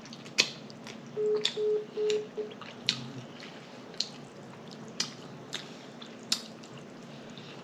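Wet clicks and smacks of someone eating, scattered about once a second, with four short, evenly spaced beeps a little over a second in.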